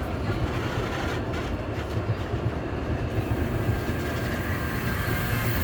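Sóller tramcar running along its track: a steady, even noise of wheels on rail and running gear.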